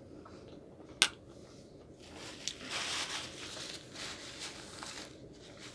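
Eating and handling food close to the microphone: one sharp click about a second in, then a few seconds of soft, squishy rustling.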